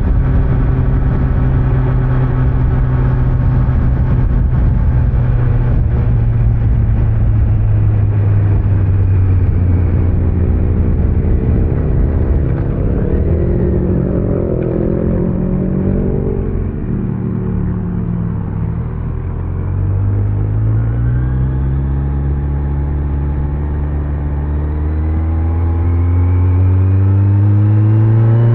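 Kawasaki Z900's inline-four engine through its stock exhaust, ridden on the road: steady at cruise, easing off with falling pitch around the middle, then accelerating with a steady rise in pitch through the last third.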